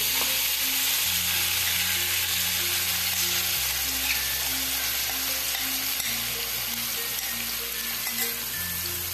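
Yogurt-marinated chicken pieces sizzling steadily in hot oil in an aluminium pan as they are scraped in from a bowl with a spoon; the sizzle eases slightly near the end.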